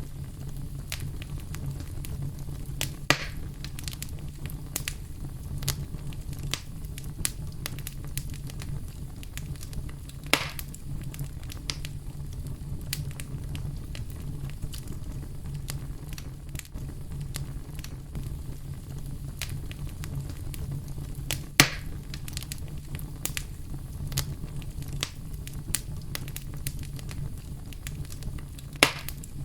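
Campfire crackling with frequent small snaps and four louder pops spread through, over a steady deep rumble of brown noise.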